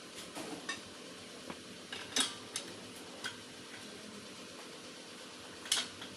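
Metal hand tools clinking against metal car parts: a handful of sharp, irregular clinks, the loudest about two seconds in and near the end.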